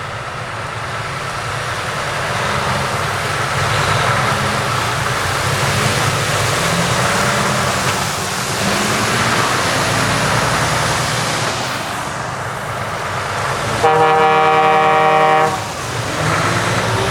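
Heavy trucks driving by with their diesel engines running, the sound rising and falling as they pass. About 14 seconds in, a truck horn gives one loud blast of about a second and a half.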